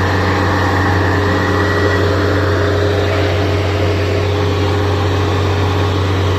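Diesel engine of a Kubota DC70 Plus rice combine harvester running steadily at a constant speed, with a deep, even hum and no revving.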